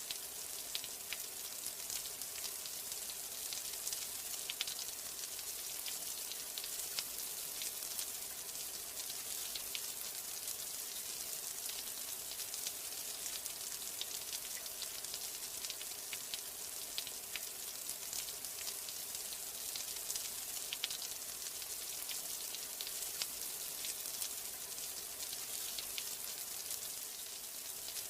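Steady rain: an even, high-pitched hiss of falling drops, dotted with many small sharp ticks of single drops striking a surface.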